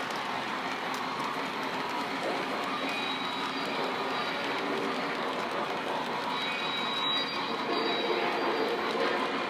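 Lionel model train running along its track, a steady rolling noise of wheels and motor.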